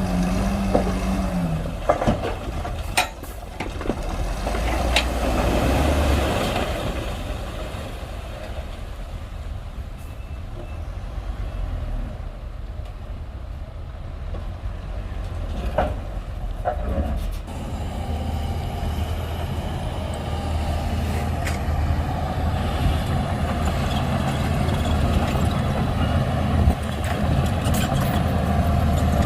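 Shantui DH17C2 bulldozer's diesel engine running under varying load, louder for a few seconds early on, easing off through the middle and building again toward the end, with a few sharp knocks and clanks.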